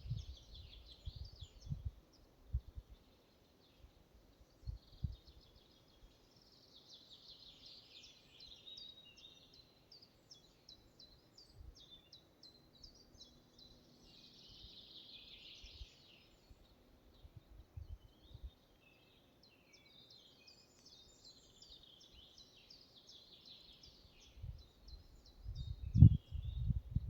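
Forest songbirds singing, with repeated phrases of high chirps and trills. Low rumbling bursts come at the start and again near the end, where they are loudest.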